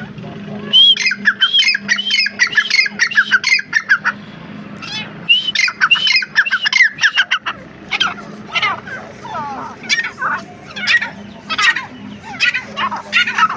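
Grey francolin calling: fast series of loud, repeated, rising and falling notes, in two dense bouts in the first half and then more spaced calls, over a steady low hum.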